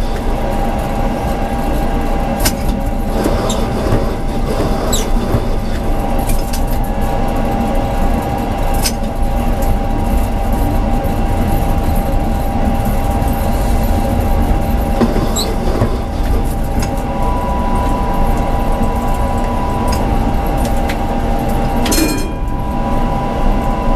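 Tram running along the street: a steady rumble of wheels on rail under a constant electric motor whine, with occasional clicks. A second, higher whine joins about two-thirds of the way through.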